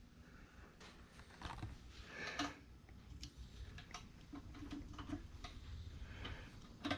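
Faint, scattered clicks and rustling from hands handling small parts.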